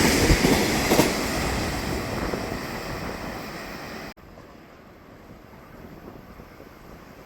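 A Nishitetsu electric commuter train runs past and draws away, its wheels clicking twice over rail joints while the noise fades. About four seconds in the sound cuts off abruptly to a much quieter background hush.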